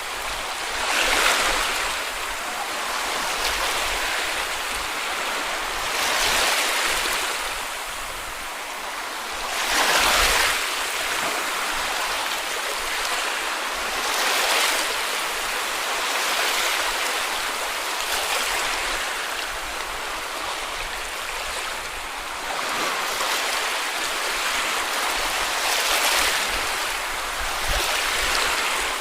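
Small sea waves breaking and washing up on a beach, each wash swelling and falling away every few seconds over a steady hiss of surf.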